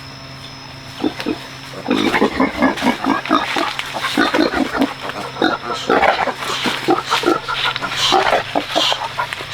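Pigs grunting and squealing in quick succession, starting about two seconds in, over a steady low hum.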